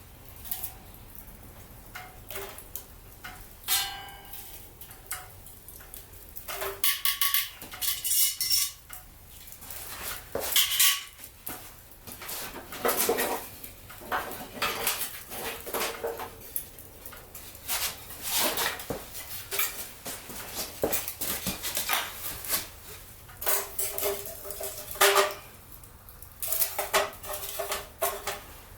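Irregular metal clinks and clanks, some leaving short ringing tones, as of metal cookware or stove parts being handled and set down.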